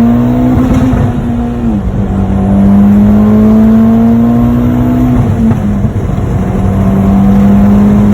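Turbocharged four-cylinder engine of a modified Mitsubishi Lancer Evolution X with an aftermarket exhaust, accelerating hard: the engine note climbs steadily in pitch and drops sharply at two upshifts, about two seconds and five seconds in.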